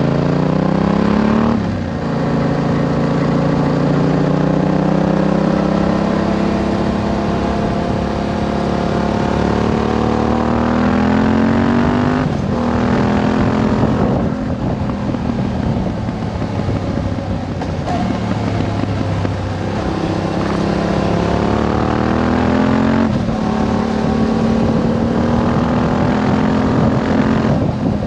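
Yamaha Ténéré 700's parallel-twin engine through a Termignoni slip-on exhaust, under way and pulling slowly up through the revs. The pitch drops sharply at each gear change, about a second and a half in, about twelve seconds in and about twenty-three seconds in, then climbs again.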